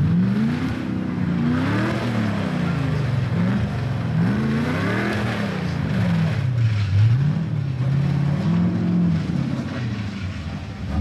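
Holden Commodore's LS2 V8 engine revving hard during a burnout, its note rising and falling again and again as the throttle is worked.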